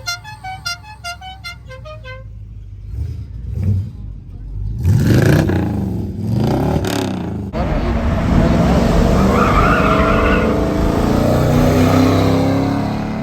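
A car horn sounds in a rapid pulsed pattern for the first two seconds. Car engines then rev, rising in pitch around five seconds in, and from about eight seconds a loud engine sound holds steady.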